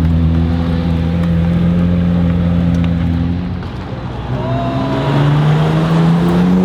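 A car engine running hard at steady revs. About three and a half seconds in it eases off, then builds again with rising pitch toward the end.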